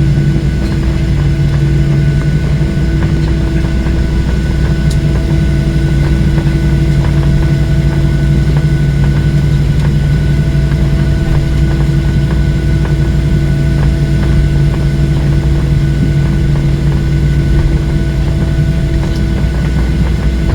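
Boeing 737-800's CFM56 engines running at idle, heard inside the passenger cabin: a steady drone with several constant hum tones over a low rumble.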